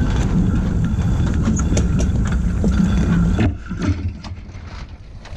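Wind buffeting the microphone aboard a sailboat, a loud low rumble with scattered clicks and knocks from gear on deck. About three and a half seconds in, the rumble drops away suddenly and leaves a much quieter hiss.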